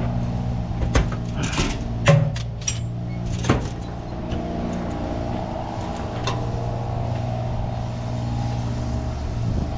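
An engine idling steadily with a low hum. Several sharp knocks and clicks fall in the first few seconds.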